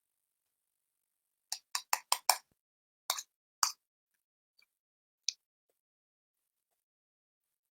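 Short wet mouth smacks from chewing a bite of cat food: five in quick succession about a second and a half in, two more around three seconds, and a last faint one near five seconds.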